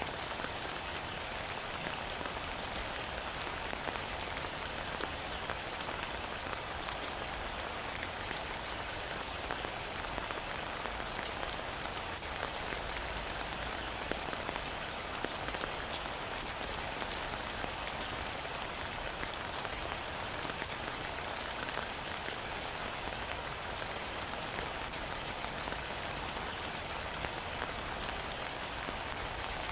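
Heavy, steady rain falling, a dense even hiss sprinkled with the small ticks of individual drops.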